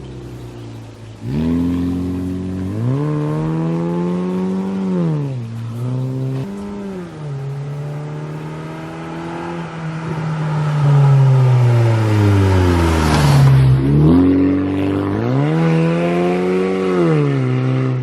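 Car engine revving up and down several times, its pitch climbing, holding and falling back, with one long slow fall in pitch midway.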